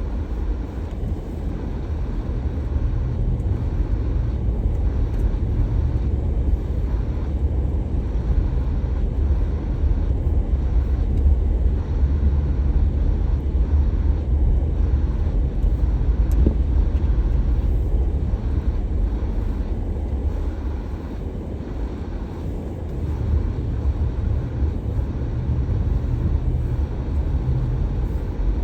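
Car driving: a steady low rumble of engine and tyres, easing a little about two-thirds through and picking up again.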